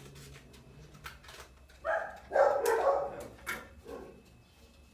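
A dog barking: a short bark about two seconds in, then a longer run of barks, with one smaller bark near the end.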